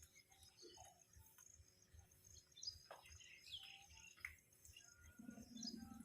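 Faint birdsong: scattered chirps and short sweeping calls over a steady high insect trill.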